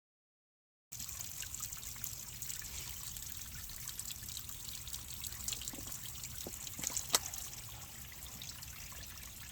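A small stream trickling and splashing, starting abruptly about a second in, with a few small clicks over it.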